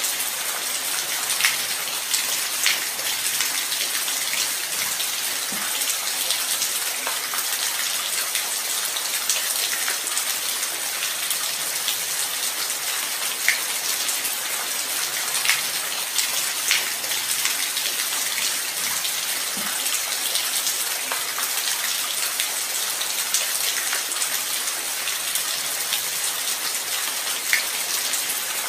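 Light rain falling steadily: an even hiss with scattered louder single drops ticking now and then.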